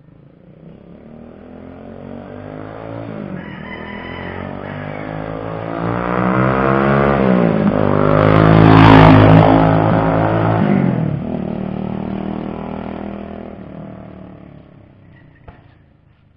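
Car exhaust with an M4 muffler, accelerating hard as it approaches, rising in pitch through several gear changes. It is loudest as it passes, about nine seconds in, then drops in pitch and fades away.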